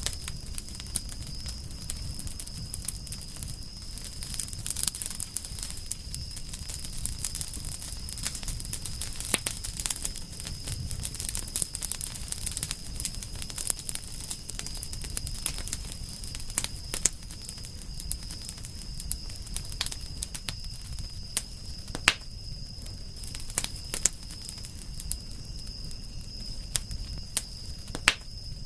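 Wood campfire crackling, with irregular sharp pops of burning firewood over a low steady rumble of the flames. A steady high-pitched tone runs underneath throughout.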